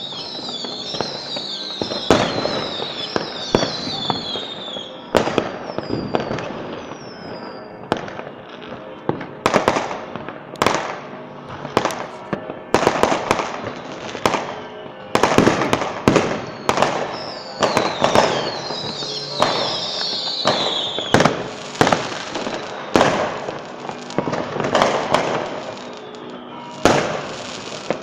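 Fireworks display: a fast run of shells bursting with sharp bangs, overlaid in two stretches by many high whistles that fall in pitch.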